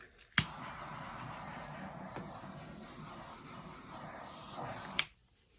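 Torch clicked on, its flame hissing steadily for about four and a half seconds, then shut off with a click.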